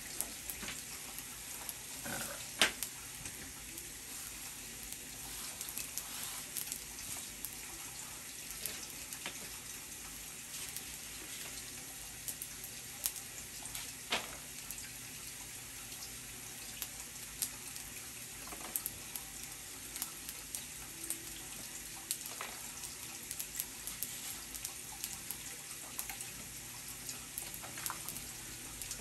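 Fried rice with peas, carrots and garlic butter sizzling in oil on a hot steel flat-top griddle: a steady hiss with scattered sharp crackles and pops.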